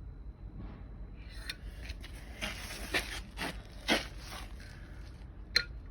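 Metal bore gauge rubbing and scraping against the cylinder wall of a BMW M54 engine block in several short strokes while bore wear is measured, with one sharp click near the end.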